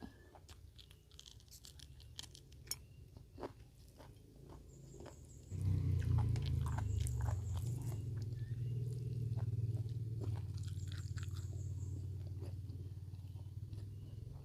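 Close-up chewing and biting of crisp food, with scattered small crunches and clicks. About five and a half seconds in, a low steady rumble starts and continues, becoming the loudest sound.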